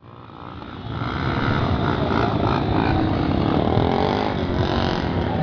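Motorcycle engine running, growing louder over the first second and a half and then holding steady.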